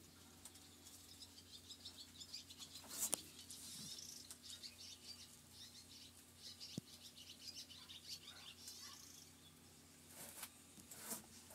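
Faint bird chirping in the background, with a few brief soft knocks, about three seconds in and twice near the end.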